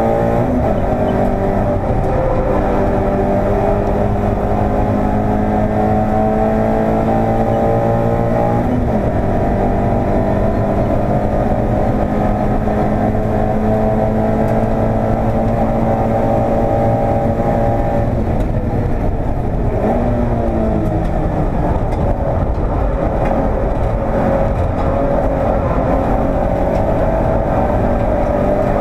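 Toyota 86's flat-four engine at race pace, heard from inside the cabin. The engine note changes sharply about a second in and again about nine seconds in, as at gear changes, breaks up around eighteen seconds in, then climbs steadily as the car accelerates.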